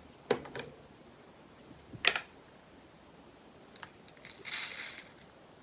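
Small plastic items of a diamond-painting kit being handled: a click just after the start, a sharp louder click about two seconds in, then a short rustle-like patch, as of drills shifting or a bag being handled, a little after four seconds.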